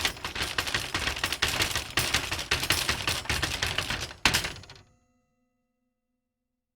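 A rapid, dense run of clicks and clatter lasting about five seconds, ending with one sharper knock about four seconds in and a short fading tail.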